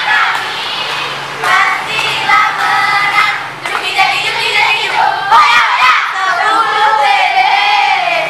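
A crowd of students singing a chant together, many voices at once with crowd noise around them.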